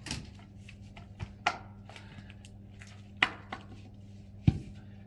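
Firewood being split with an axe: a run of sharp wooden knocks and cracks at uneven intervals, the heaviest a deep thud near the end, over a steady low hum.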